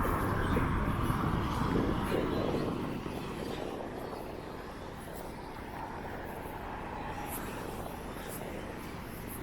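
A vehicle passing by as a low rumble, louder for about the first three seconds, then dropping to a steady, quieter background hum of traffic and wind.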